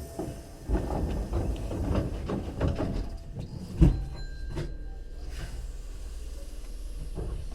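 Hankyu 3300 series train heard from inside the car as it pulls away: a few seconds of rattling and knocking, one sharp loud knock about four seconds in, then a steady low running rumble.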